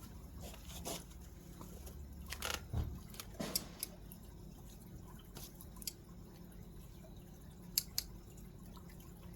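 Scattered light clicks and clinks of small objects being handled, a few at a time, over a faint steady hiss; no engine is running.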